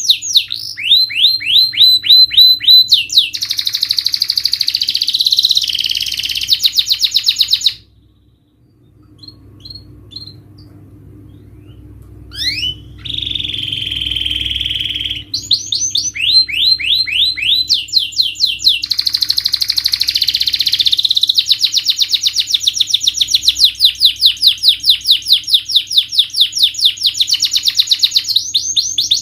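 Domestic canary singing: fast runs of repeated rising chirps and rapid trills, breaking off about eight seconds in for several seconds, then coming back with a held note and more long trills.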